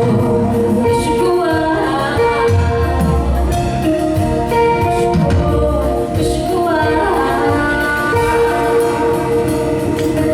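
Live song at an open mic: a singer with instrumental backing over steady held chords and a light, even tapping beat.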